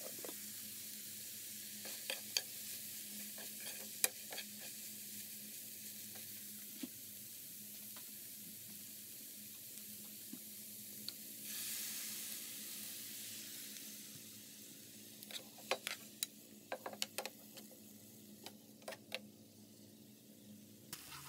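Chopped tomato, onion and egg sizzling in a frying pan while a metal spoon stirs them, with scattered clinks and scrapes of the spoon against the pan. The sizzle swells suddenly about halfway through, and the clinks come thick and fast near the end.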